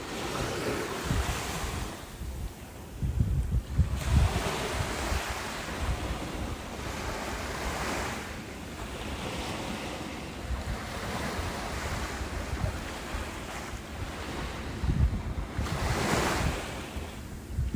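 Ocean surf: waves washing in and drawing back in slow swells every few seconds. Gusts of wind buffet the microphone, with a low rumble a couple of seconds in and again near the end.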